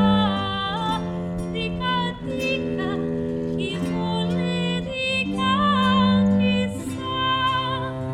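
Live early Italian Renaissance/Baroque vocal music: a woman singing a melody with vibrato over held low string notes that change every second or two.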